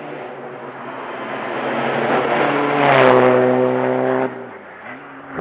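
Rally car engine at high revs on a special stage, growing louder as it approaches and loudest about three seconds in, then cutting off abruptly a little after four seconds.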